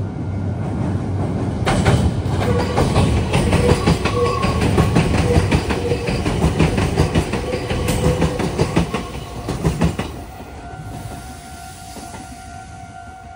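Meitetsu electric train running past over the junction's points, its wheels clacking rapidly over the rail joints and crossings with a heavy rumble. The clatter fades out about ten seconds in, leaving a faint steady tone.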